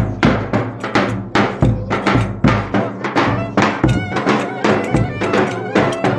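Live traditional Turkish folk dance music: a loud drum beat at about three strikes a second, with a shrill, reedy wind melody coming in about halfway through.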